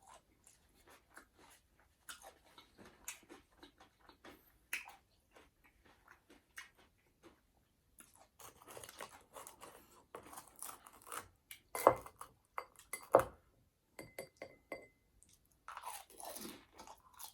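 Close-miked chewing and eating of ramen noodles, with many small wet clicks and crackles of the mouth. Two louder sharp knocks come about twelve and thirteen seconds in.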